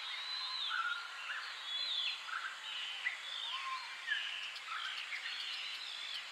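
Several birds singing and calling over a steady hiss of background ambience: many short whistled notes that slide up and down in pitch.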